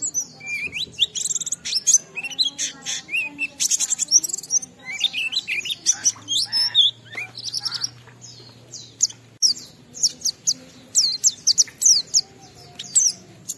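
White-eye (pleci) singing a long, unbroken stream of fast, high chirps and twittering notes. A faint low hum runs beneath it for about three seconds in the middle.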